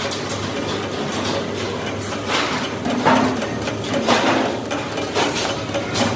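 Factory workshop noise: machinery running with irregular metallic knocks and clatter.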